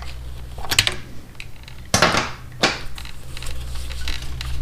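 Metal motorcycle parts clinking and knocking as a bracket is wiggled loose by hand, with a louder scraping clatter about two seconds in.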